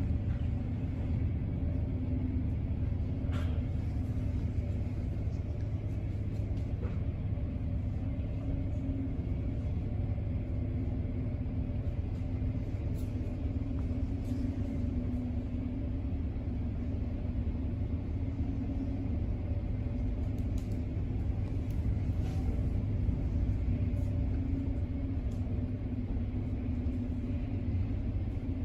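Steady low mechanical rumble with a droning hum, from car wash machinery running, with a few faint clicks.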